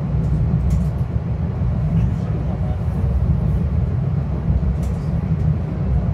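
Metro-North commuter train running, heard from inside the coach as a steady low rumble, with a few faint light ticks.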